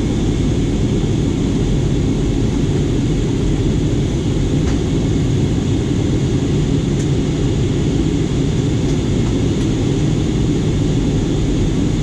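Airliner cabin noise in flight: a steady low rumble of engines and rushing air, unchanging throughout.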